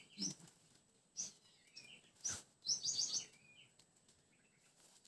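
Small birds chirping in short clusters of quick high calls, with a sharp click a little over two seconds in.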